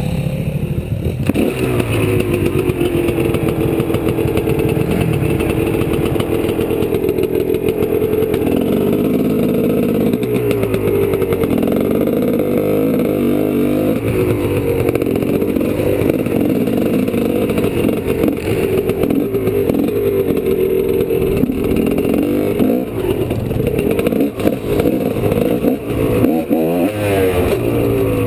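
2003 GasGas EC300's single-cylinder two-stroke engine revving up and down as the dirt bike is ridden, its pitch rising and falling over and over with throttle and gear changes.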